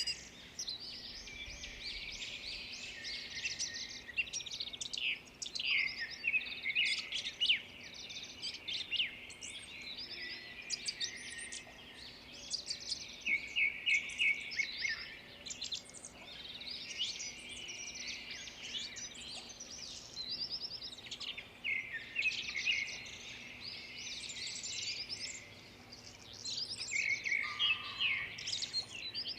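A chorus of many small birds chirping and calling at once, with overlapping high chirps and quick trilled note series running on without a break.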